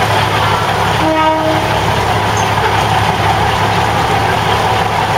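Diesel railcar running, heard from inside the carriage: a steady engine drone under constant wheel and rail noise, with one short horn toot about a second in.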